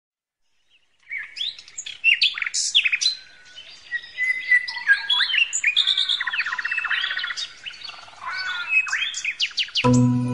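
Songbirds chirping and singing: varied whistled notes, quick up-and-down glides and rapid trills from several birds, starting about a second in. Music comes in just before the end.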